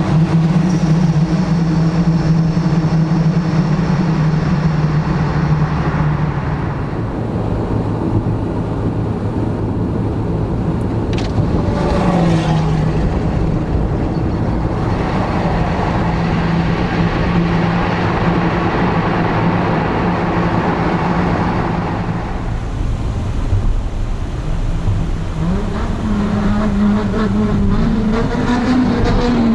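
Car engine and exhaust running at a steady cruise. There is a brief change in pitch about twelve seconds in, and the revs rise near the end as the car accelerates.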